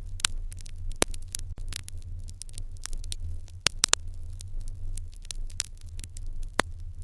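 Wood fire crackling in an irori hearth: irregular sharp pops and snaps, a few louder than the rest, over a steady low rumble.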